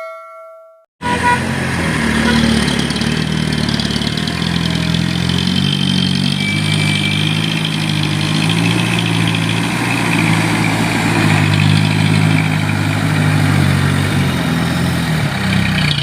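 A chime rings out and fades in the first second. Then a dump truck's diesel engine runs steadily, its pitch wavering slightly.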